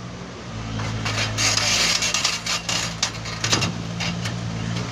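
An engine running steadily at a low, even pitch, with a burst of rustling and clattering noise about a second in.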